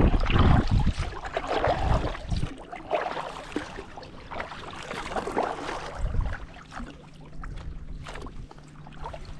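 Wind buffeting the microphone with a heavy low rumble for about the first two and a half seconds, then a quieter noisy background with a faint steady low hum.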